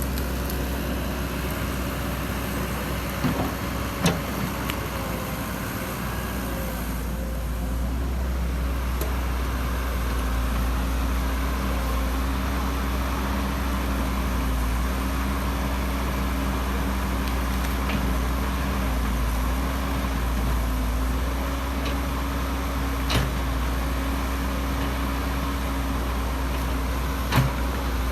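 Excavator's diesel engine running steadily, with a few short sharp knocks a few seconds in and twice more near the end.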